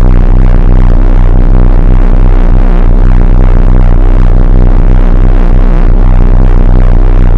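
Very loud pulsing, wobbling electronic drone from a speaker: a stack of low steady tones that throbs rapidly and without a break.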